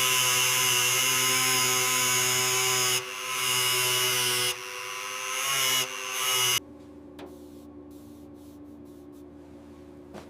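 A power tool runs at a steady pitch and is let off briefly three times, spinning back up each time. It then stops abruptly about two-thirds of the way through, leaving a faint low hum and a few small ticks.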